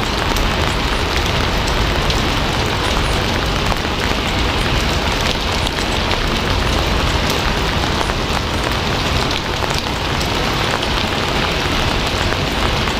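Steady, loud rain falling, an even hiss with many small drop taps scattered through it.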